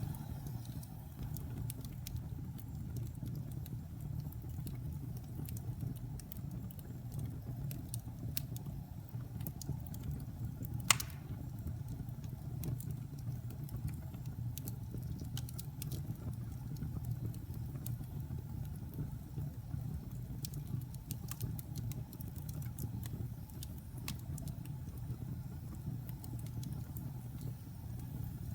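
Wood fire burning in a fireplace: a steady low rumble of flames with scattered small crackles, and one sharp loud pop about eleven seconds in.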